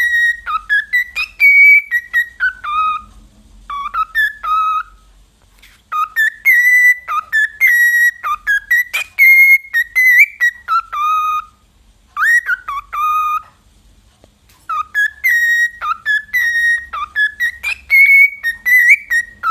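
Parrot whistling a tune in four phrases of quick notes that hop and slide up and down, with short pauses between phrases.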